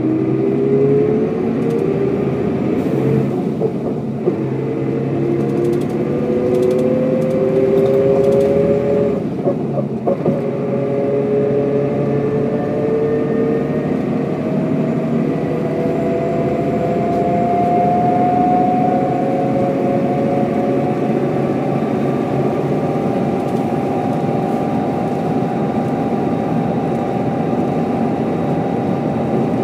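1995 Mercedes-Benz O407 bus's diesel engine and drivetrain accelerating on the road, heard from inside the bus: the whine climbs in pitch, steps down at a gear change about ten seconds in, climbs again, then holds steady at cruising speed for the last third.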